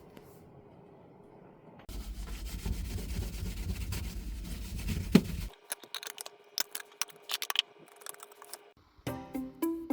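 Rubbing and scraping for a few seconds, then a run of light clicks and knocks as objects are handled, with music starting near the end.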